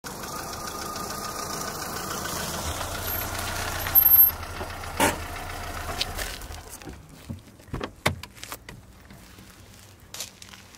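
Car engine running steadily, then a brief loud burst about four seconds in and a sharp thud about a second later; after that it goes quieter, with scattered clicks and knocks.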